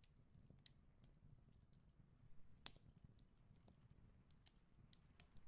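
Near silence with faint, scattered light ticks and taps, one a little clearer about two and a half seconds in: a clear plastic pattern-drafting ruler being set down and moved, and a pencil on paper.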